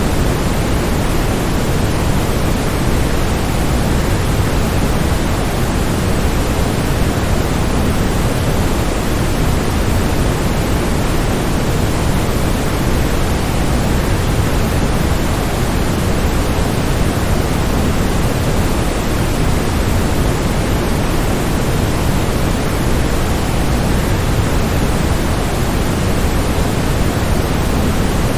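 Waterfall rushing: a steady, unbroken wash of falling water, heaviest in the low end and even throughout.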